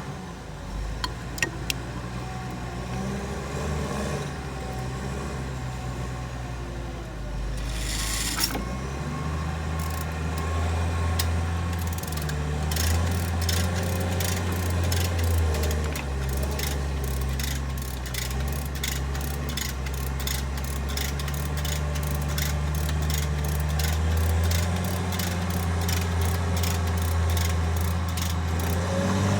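Heavy diesel engine running, its pitch stepping up and down. From about a third of the way in, a quick run of sharp ticks, about two a second, sounds over it.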